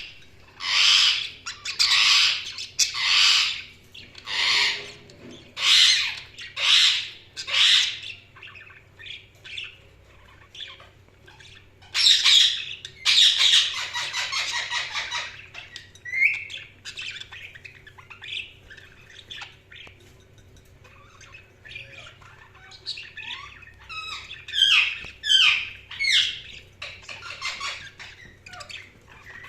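Budgerigars calling and chattering: loud, harsh squawks about once a second at first, a dense burst of chatter about twelve seconds in, then softer chirps and short sliding warbles.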